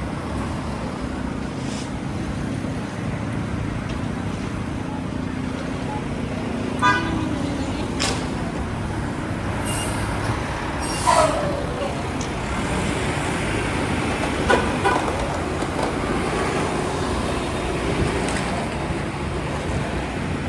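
Busy city street traffic noise with car horns honking briefly, about seven seconds in and again around fifteen seconds, and a short falling squeal-like tone in between.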